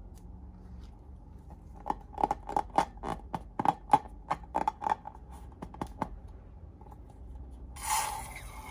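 A quick run of about fifteen sharp clicks over some four seconds, then a brief rustling hiss near the end.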